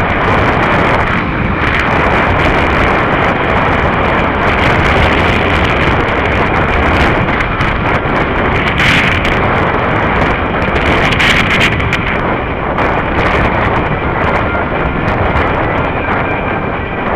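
Loud, steady wind buffeting on the microphone while riding at road speed, a dense rushing rumble with no clear engine note.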